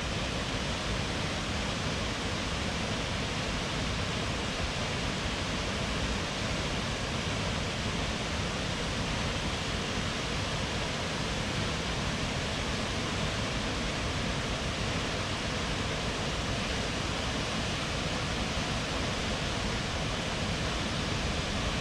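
Steady rushing of Haew Suwat Waterfall, water dropping over a 25-metre cliff.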